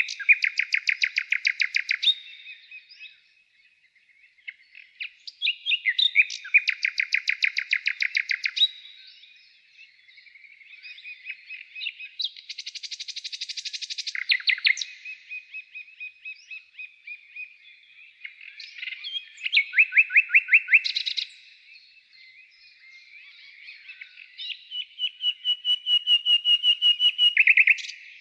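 A songbird singing in phrases of fast, rapidly repeated notes, each phrase lasting a second or two, five phrases with short pauses between them.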